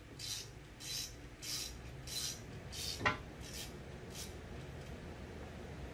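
Hand ratchet being worked back and forth to run in the bolt holding a new brake rotor to the hub: a quick run of ratcheting clicks on each back-stroke, about seven strokes at a steady pace, stopping about four seconds in, with one sharp metal click near the middle.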